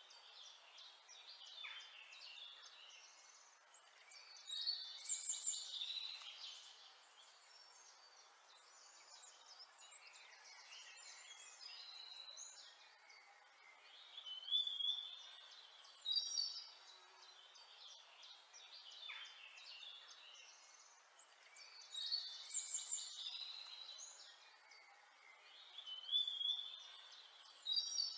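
Birdsong: small birds chirping and trilling in short, high phrases, with a louder burst of song every few seconds and softer twittering in between.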